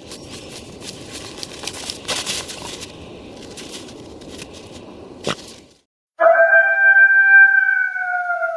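A rushing hiss with crackles and one sharp snap about five seconds in. It cuts off, and then a long wolf howl follows, held on one pitch and sagging slightly at the end.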